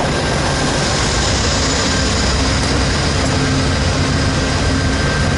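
Diesel-hauled passenger train passing close by: a steady rumble of steel wheels on rail, with the trailing diesel locomotive's engine running as it goes past.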